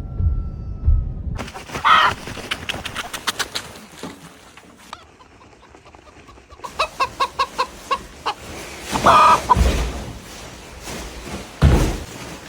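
Chicken clucking and squawking: a louder squawk about two seconds in, a quick run of short clucks later on, and another loud squawk near the end, with a few low thumps.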